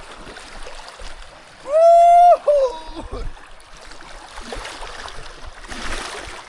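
Running water of a stream or river, a steady rushing, with one loud, high call held for under a second about two seconds in, dropping in pitch as it ends.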